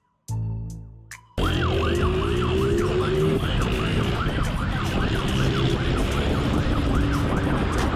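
Two deep, fading music notes with a steady beep, then about a second and a half in, a police siren suddenly wailing in a fast yelp, about three cycles a second, over an engine that accelerates and over road noise.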